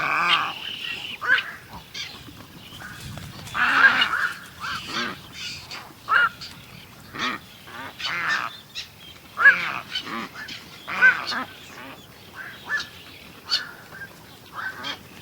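Birds calling: a string of short, sharp calls about one a second, some loud and close, others fainter, overlapping one another.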